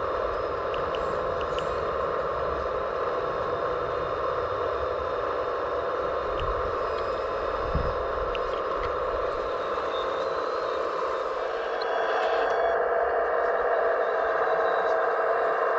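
Steady whirring of radio-controlled scale construction machines' electric motors and hydraulic pumps, with a few faint clicks, getting a little louder about twelve seconds in.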